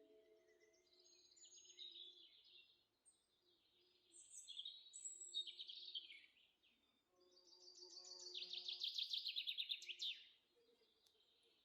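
Faint wild birdsong: assorted chirps and short whistles, with a rapid trill of repeated notes from about seven to ten seconds in. A low ringing tone dies away in the first second.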